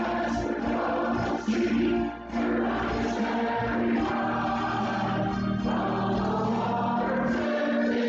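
Church choir and congregation singing a gospel hymn of invitation over instrumental accompaniment, with sustained notes.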